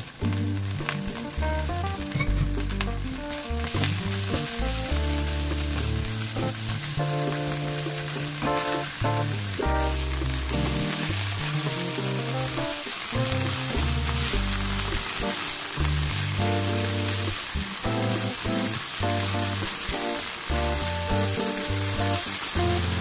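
Hijiki seaweed and carrot strips sizzling in a hot nonstick wok as they are stirred and tossed with a spatula; the sizzle grows louder about four seconds in.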